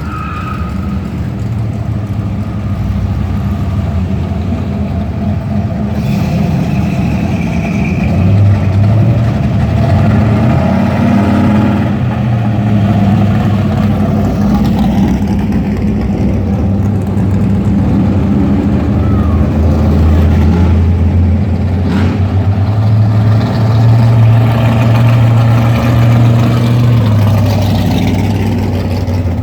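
Engines of classic cars and hot rods cruising past, a loud, low, steady engine sound that swells about a third of the way in and again near the end as cars rev past.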